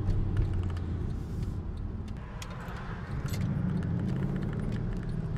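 Mercedes-Benz CLS 63 AMG S twin-turbo V8, its exhaust resonator deleted, running at light cruising load, a steady low drone heard inside the cabin that grows a little louder past the middle. Light clicking and jingling over it.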